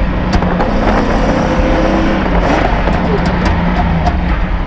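Triumph TR7 V8 rally car's engine running hard on a stage, revs rising and falling, heard from inside the car, with sharp clicks and rattles over it.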